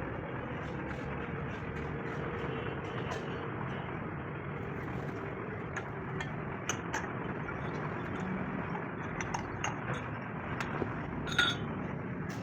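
Scattered light metallic clinks and taps over a steady background rumble, with one sharper clink about eleven seconds in.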